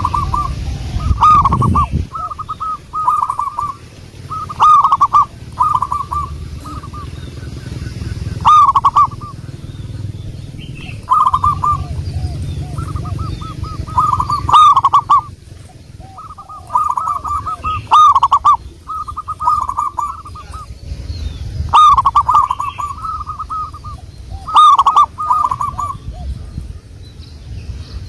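Zebra dove (perkutut) cooing: repeated phrases of quick, rolling coo notes every few seconds, over a low rumble.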